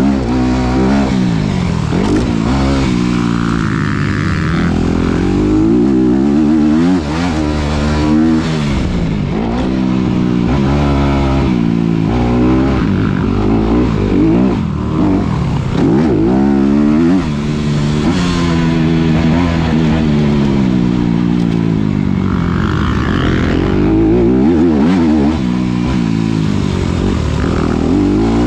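2019 Honda CRF250RX's 250cc single-cylinder four-stroke engine under hard riding on a motocross track, its revs climbing and dropping again and again every few seconds as the throttle is opened and shut through the corners and jumps.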